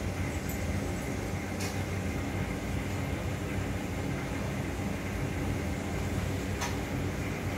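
Steady low hum and rumble, with two faint clicks, one about one and a half seconds in and one near the end.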